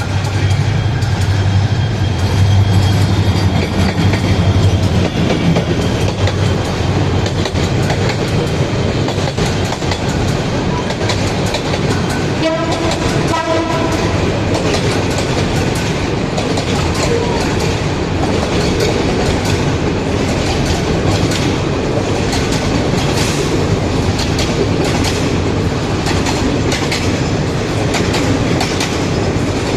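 Train running on the rails: a steady rumble with its wheels clicking over the rail joints, and a short horn blast about halfway through.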